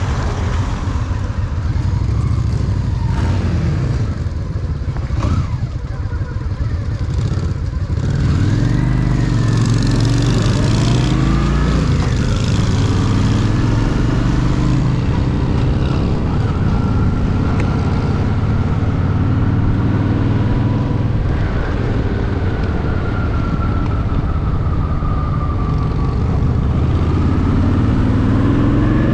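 Honda Shadow VT750's V-twin engine running on the move, its pitch rising and falling with the throttle and gear changes; it gets louder about eight seconds in as the bike pulls away.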